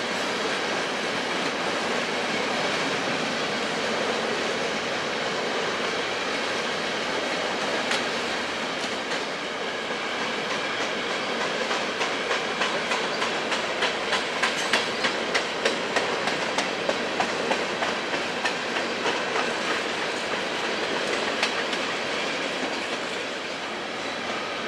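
Covered grain hopper cars of a freight train rolling past, a steady rumble of steel wheels on rail. Through the middle stretch the wheels click rapidly and rhythmically.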